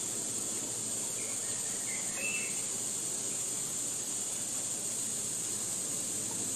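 Forest ambience: a steady, high-pitched insect drone, with a short bird chirp about two seconds in.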